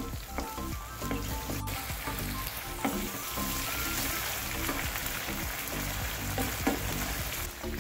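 Chicken, mushrooms and green chillies sizzling in oil and their own juices in a nonstick pan, stirred with a wooden spatula that scrapes the pan now and then. Soft background music plays underneath.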